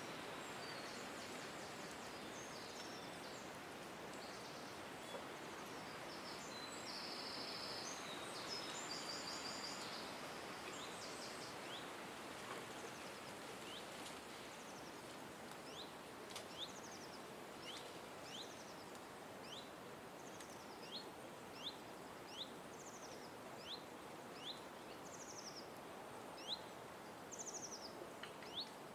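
Songbirds calling over a steady outdoor hiss: a burst of chattering, buzzy high notes for the first few seconds, then a long run of short rising chirps repeated about once or twice a second.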